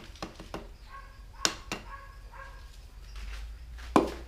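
A piston being tapped down through a ring compressor into a Honda F22B engine's cylinder bore. Irregular sharp taps come through, the loudest about a second and a half in and again near the end, some followed by a brief metallic ring.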